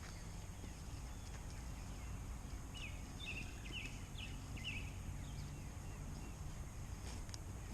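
Cornish Cross chickens peeping: a run of short, high, falling peeps about three to five seconds in, over a steady low rumble.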